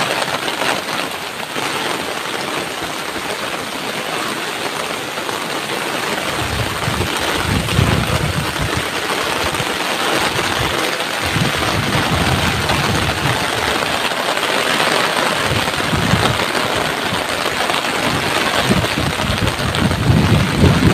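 Heavy tropical downpour pouring steadily in strong wind. From about six seconds in, irregular low gusts of wind buffet the microphone.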